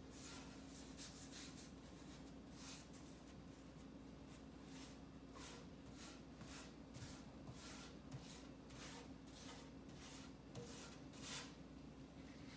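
Faint, soft strokes of a paintbrush brushing paint onto a wooden birdhouse, repeated at an uneven pace with one stronger stroke near the end, over a steady low hum.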